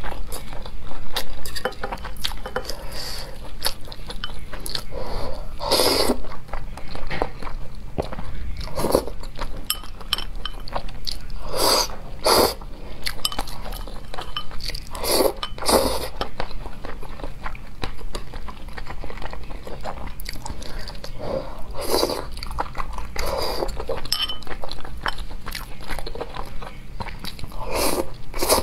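Close-miked eating: wet chewing and mouth sounds on soft, sticky red-braised pork belly, with a louder short smack or slurp every few seconds.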